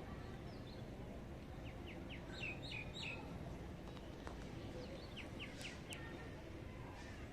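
Budgerigar chicks cheeping: two runs of short, quick high chirps, the first about two seconds in and the second near six seconds, over a steady low background hum.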